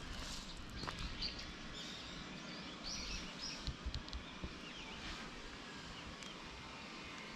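Small birds chirping and calling over a steady low outdoor rumble, with a pair of short high calls about three seconds in.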